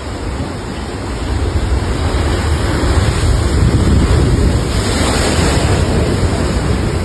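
Heavy storm surf breaking, with strong wind blowing on the microphone; it grows louder about a second in.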